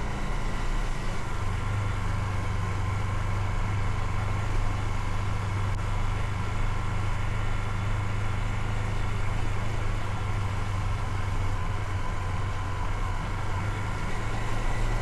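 Motorcycle engine running at a steady speed with an even hum, over a steady rush of wind and road noise.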